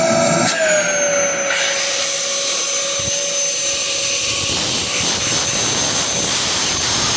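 Dyson DC07 upright vacuum cleaner running with a steady motor whine and rush of air. The whine drops slightly in pitch about half a second in, then holds steady.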